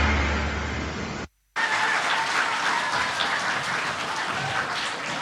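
Backing music fading out and cutting off about a second in, then, after a brief gap, an audience applauding.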